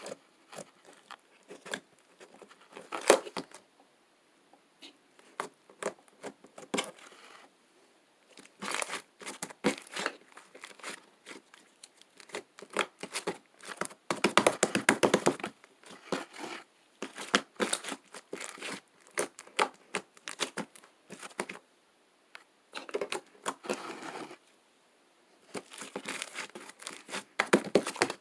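Fluffy slime being squeezed and stretched by hand. It crackles and pops in dense spells of a few seconds each, separated by short pauses.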